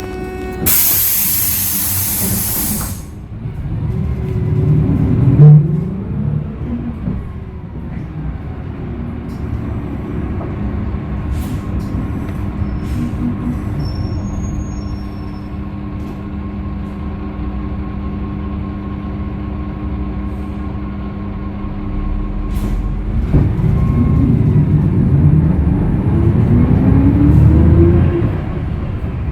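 Hyundai Green City CNG city bus with its C6GB natural-gas engine, heard from inside. A loud hiss of compressed air comes about a second in; the engine's pitch rises at about four seconds, holds steady for a long stretch, then rises again near the end.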